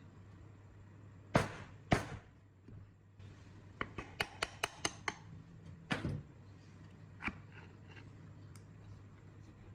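Workshop handling sounds of hand work on scooter parts: two sharp knocks, then a quick run of about seven clicks, another knock and a last click, over a low steady hum.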